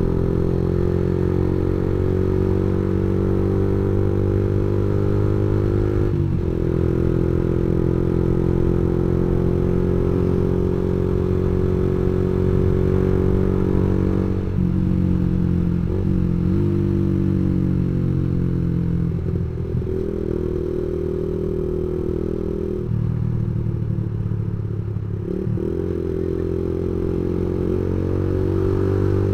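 Yamaha MX King 150's single-cylinder engine through a custom aftermarket exhaust, running steadily under way. Its note dips and recovers several times.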